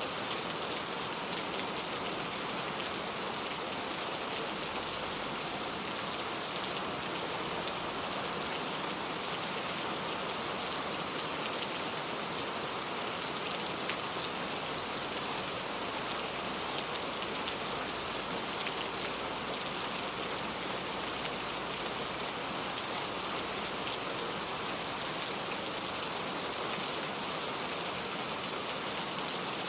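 Steady, even rain falling, a constant hiss with the fine ticks of individual drops hitting a surface.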